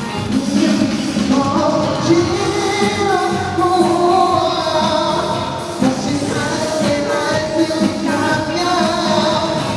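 Live pop concert music: a male singer's sung melody over an amplified band or backing track.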